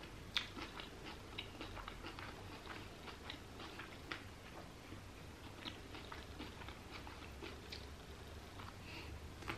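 Close-miked chewing and wet mouth clicks from eating a fresh rice paper roll filled with salmon, with a fresh bite near the end. The sharpest click comes about half a second in.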